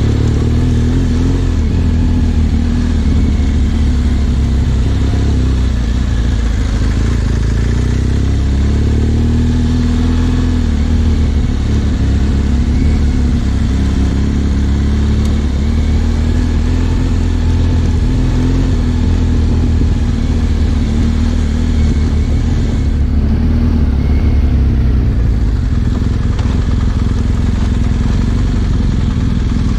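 Trail motorcycle engine running while riding, its pitch rising and falling gently with the throttle over a steady low rumble.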